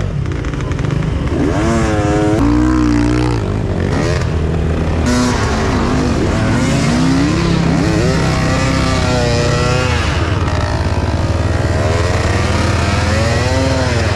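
Enduro motorcycle engine revving up and down again and again over a steady low running note.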